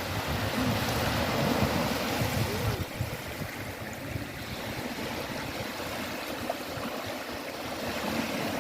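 Steady rushing water, with faint voices in roughly the first three seconds; the noise thins in the highs about three seconds in.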